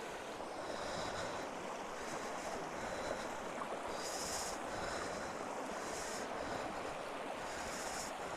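Creek water flowing steadily, with three short high hissing rustles about four, six and eight seconds in.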